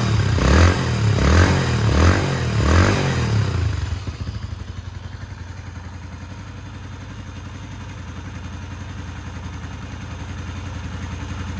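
Kawasaki 250TR's single-cylinder four-stroke engine running through an aftermarket BAEMS full exhaust. It is blipped in quick revs, about one every three-quarters of a second, for the first four seconds, then drops to a steady idle.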